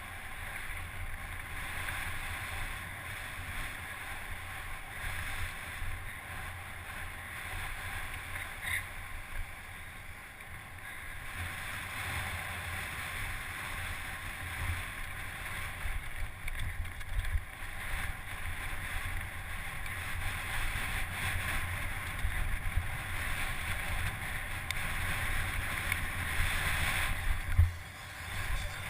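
Wind rushing over the microphone with a low, uneven rumble underneath, as from a mountain bike running fast downhill. It grows somewhat louder in the second half and drops sharply near the end.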